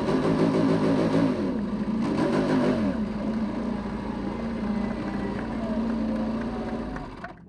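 Racing superbike engine heard onboard: revs rise and fall twice over the first few seconds, then hold a steady note before cutting off suddenly near the end.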